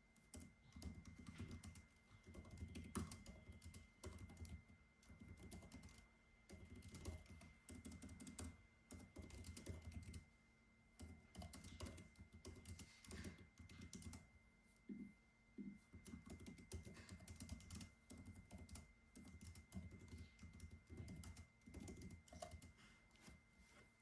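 Typing on a computer keyboard in quick runs of keystrokes, broken by short pauses, over a faint steady hum.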